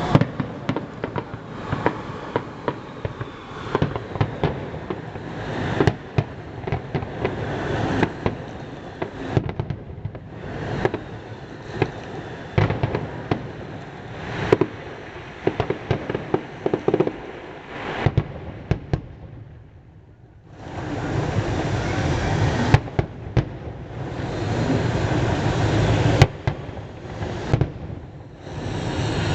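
Fireworks display: a rapid run of sharp bangs and cracks from bursting shells, with a short lull a little past the middle. After the lull come two long stretches of dense noise, broken by more bangs.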